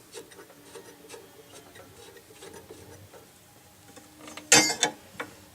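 Small scraping and clicking of hands and tools working a part loose on a jukebox mechanism. About four and a half seconds in, a loud, sharp clatter as the part comes off.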